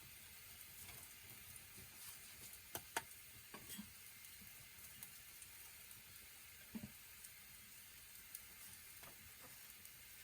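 Food sizzling faintly in a pan, with a few light clicks and taps.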